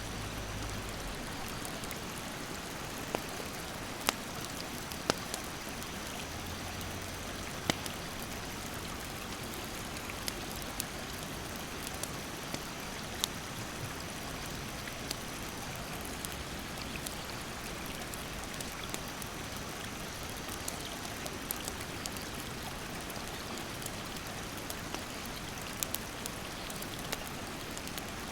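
Rushing mountain stream as a steady hiss, with a wood campfire crackling over it: sharp pops at irregular intervals, the loudest about four, five and eight seconds in.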